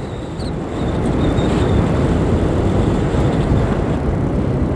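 125 cc learner motorcycle on the move, its engine drone mixed with steady wind and road noise, picking up slightly in level about half a second in.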